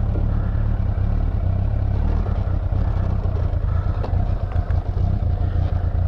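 Motorcycle engine idling steadily, a heavy low rumble with quick even pulsing, picked up close by a microphone on the tank bag.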